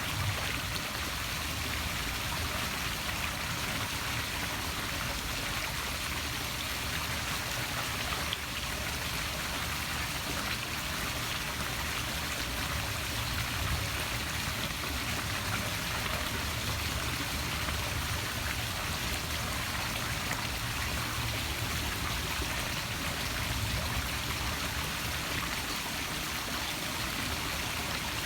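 Poolside waterfall splashing steadily into a swimming pool.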